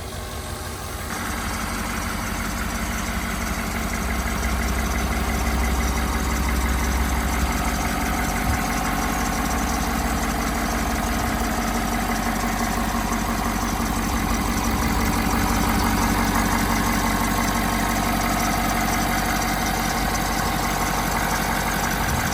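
Ford 6.7 Powerstroke V8 diesel engine running steadily, growing louder about a second in and again a few seconds later.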